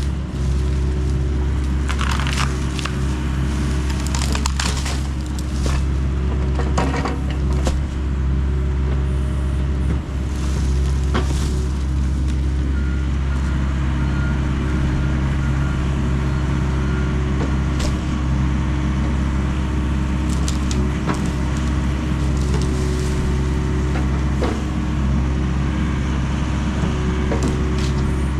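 John Deere 60G excavator's diesel engine running steadily under load while wood cracks, snaps and splinters as the machine breaks up trees and branches.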